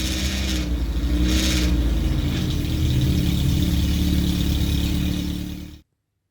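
Alfa Romeo 33's flat-four boxer engine running at idle shortly after a cold start, its pitch rising and falling slightly once. The sound cuts off abruptly near the end.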